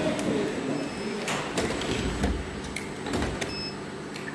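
Workshop machinery running, with several sharp knocks and clacks at irregular moments over a steady mechanical background.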